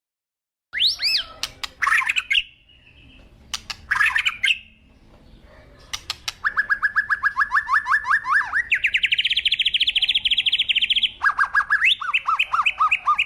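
Birds singing: after a brief silence, a few sharp chirps, then from about halfway fast trills of quickly repeated rising whistled notes that jump to a higher pitch twice.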